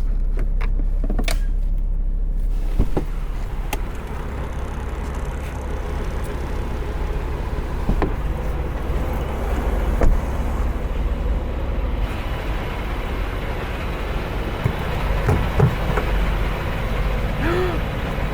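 Peterbilt semi truck's diesel engine running steadily with a low rumble, with a few scattered clicks and knocks.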